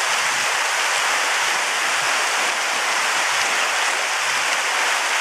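Heavy rain pouring down steadily in a thunderstorm: an even, unbroken hiss.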